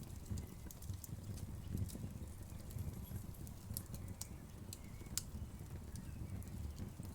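Wood fire crackling: a low fluttering rumble of flames with scattered sharp pops and snaps, the loudest a little past five seconds in.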